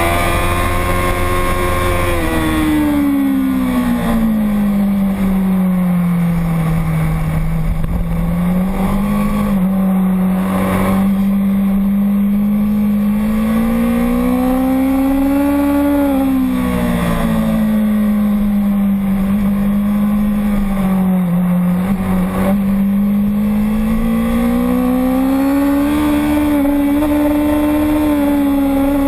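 A racing motorcycle's engine running continuously under load. Its pitch sinks and climbs slowly over several seconds at a time, falling twice and rising back each time, as the throttle and speed change through the lap.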